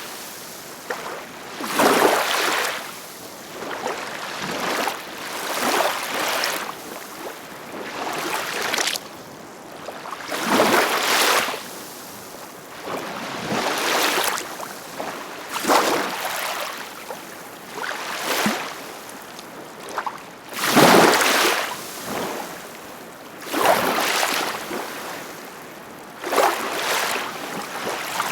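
Ocean waves breaking and washing ashore, each wave a rushing surge that swells and fades, coming every two to three seconds.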